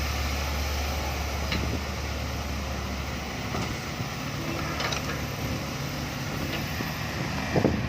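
Diesel engine of a six-wheel dump truck running, a low drone that fades away about halfway through.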